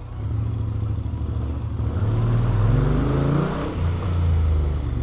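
Honda X-ADV 750 parallel-twin engine through the stock exhaust with an Akrapovic manifold, accelerating: the pitch rises for a second and a half, drops sharply as it shifts up about three and a half seconds in, then runs steadily.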